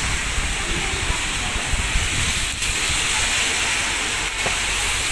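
Heavy rain falling on a street and wet pavement: a steady, loud hiss, with an uneven low rumble beneath it.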